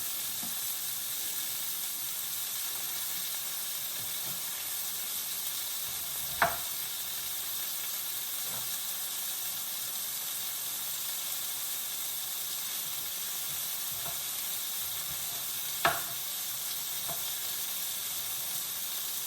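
Food sizzling steadily in a hot frying pan, with two sharp clacks about six seconds apart, like a utensil knocking the pan.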